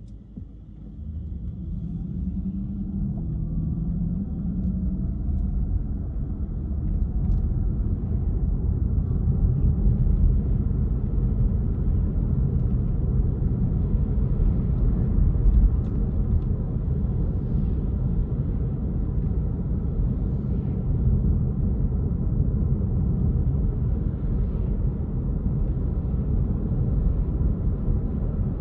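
A car driving, with a steady low rumble of engine and road noise that grows louder over the first couple of seconds and then holds steady.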